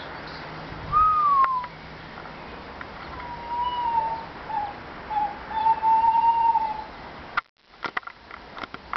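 A series of whistled bird calls, each a single clear note: one falls in pitch about a second in, then several more follow, the longest held steady for about a second. Near the end the sound cuts out suddenly and a few sharp clicks follow.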